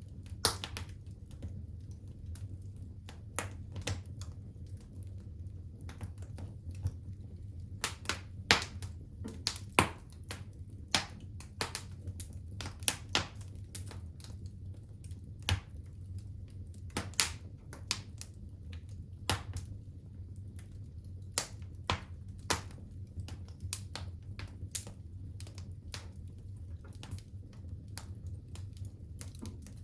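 Wood fire in a fireplace crackling: irregular sharp pops and snaps, a few louder ones near the middle, over a steady low hum.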